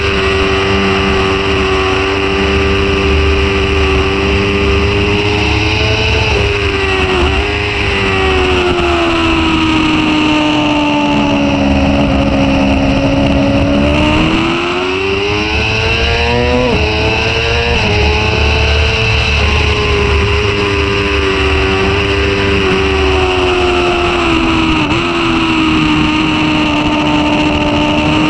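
Sport motorcycle engine running hard under the rider on a race track, with wind rushing over the onboard microphone. The engine note sags through a long stretch, climbs steeply about halfway through and drops suddenly at a gear change, then holds high again.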